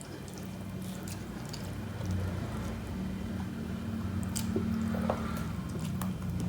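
Close-up eating sounds: wet chewing and squishy mouth noises with a few sharp clicks, over a low steady hum.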